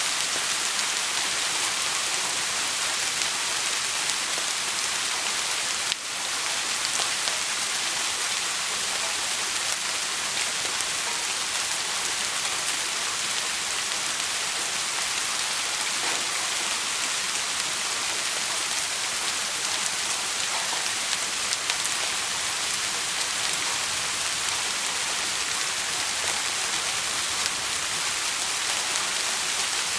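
Steady, dense rain falling on a surface, an even hiss with no let-up, broken only by a brief dip about six seconds in.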